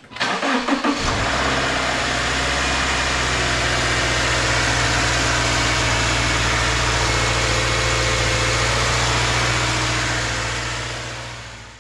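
2013 Subaru Legacy 2.5i's 2.5-litre horizontally opposed (boxer) four-cylinder engine starting about a second in, then idling steadily on its new spark plugs; it fades out near the end.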